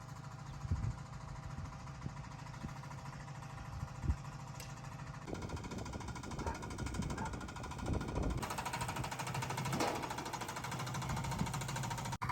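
A small engine running steadily with a rapid chattering beat; its sound changes abruptly about five seconds in and again near eight and a half seconds.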